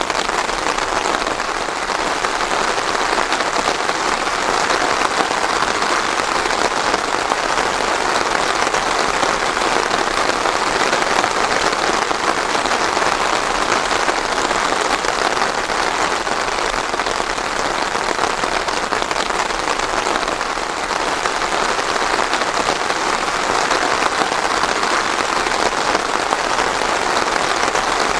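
Steady rain falling on a surface, an even, unbroken patter without thunder.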